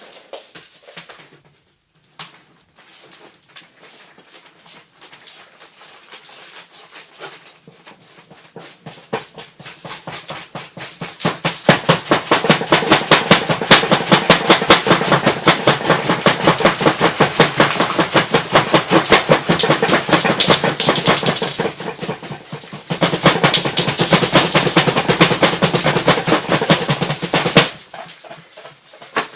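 Homemade cardboard tumble dryer running, giving off a fast, loud clattering rattle that builds up over several seconds, drops briefly about two thirds of the way through, picks up again and stops near the end.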